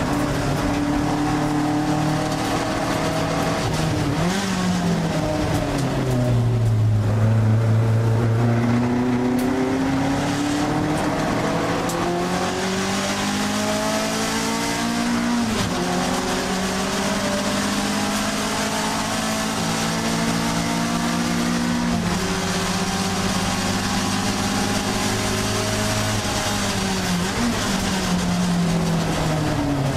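Alfa Romeo 1750 GTV's twin-cam four-cylinder engine racing, heard from inside the cabin. The revs climb for long stretches and fall away twice when the car slows for corners. About halfway through the pitch drops sharply at a gear change.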